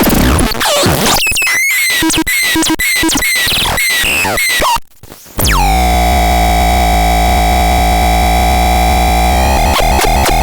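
Electronic synthesizer playing a run of short notes, each with a quick downward pitch sweep, then after a brief drop-out about five seconds in, one long buzzy tone with a deep bass underneath, held steady until it shifts near the end.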